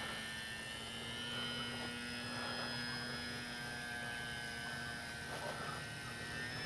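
Electric E-flite Sportix RC plane's brushless motor and propeller whining steadily in flight, the pitch bending up slightly near the end, with a steady low hum underneath.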